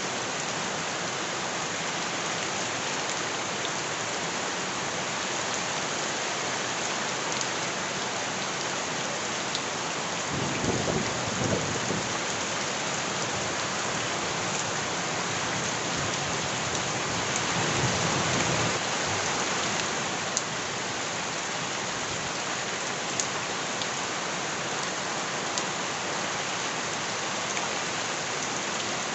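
Heavy rain falling steadily, with two low rumbles about ten and seventeen seconds in and a few sharp drip ticks later on.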